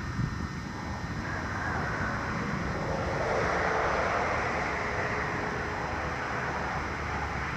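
Engine noise of something passing, swelling to its loudest about halfway through and easing off again, over a low rumble of wind on the microphone.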